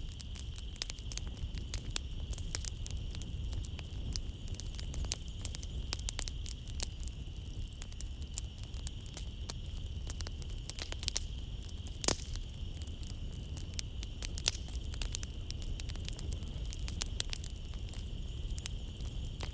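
Wood fire crackling in a fireplace: a steady low rumble of flame with many sharp, irregular pops and snaps, two louder ones about twelve and fourteen seconds in. A steady high chorus of night insects runs underneath.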